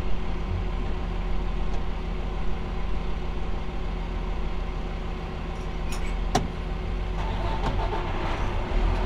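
A vehicle engine idling steadily, a low even hum, with a sharp click about six seconds in.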